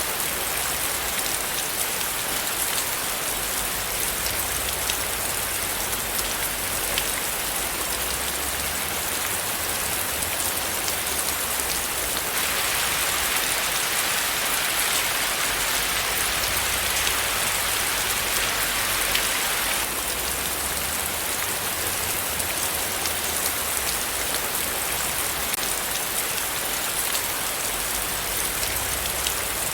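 Steady rain falling: a dense hiss of many drops with the fine ticks of single drops in it. It swells a little louder for about seven seconds near the middle, then settles back.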